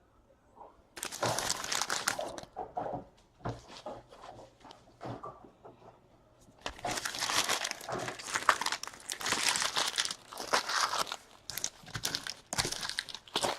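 Baseball card pack wrappers crinkling and tearing as packs are ripped open and the cards handled, in scattered bursts at first and nearly continuous from about two-thirds of the way through.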